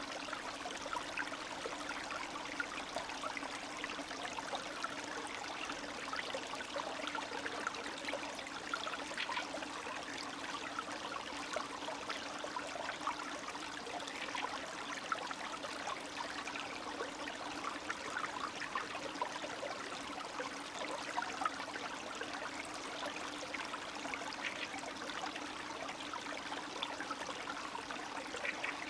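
A small spring stream trickling and babbling steadily, with many small gurgles and splashes over an even rush of water.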